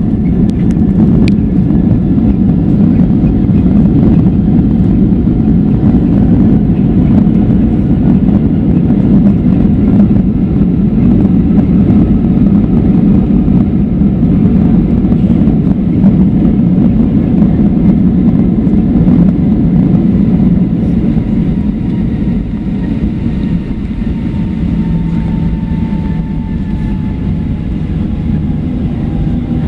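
Cabin noise of a Boeing 737-700 rolling out on the runway after landing: a loud, steady roar from the CFM56 engines and the rolling gear. About two thirds of the way through the roar eases and a faint whine slowly falls in pitch as the jet slows.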